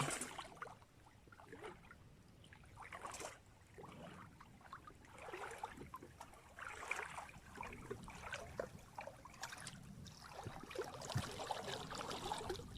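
Creek water running fast over its bed in a strong current, an uneven trickling and splashing.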